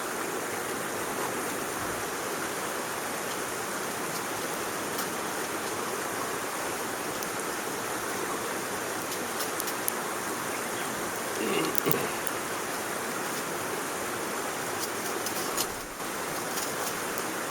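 Steady rushing noise, with a few faint clicks and a brief louder sound about twelve seconds in.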